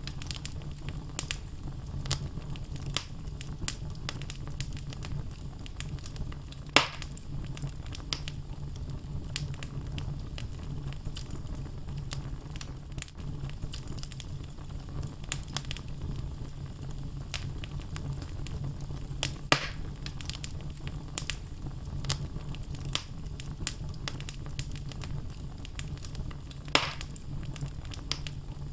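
Wood logs burning in a fireplace: a steady low rumble of the flames with constant small crackles and three louder pops spread through.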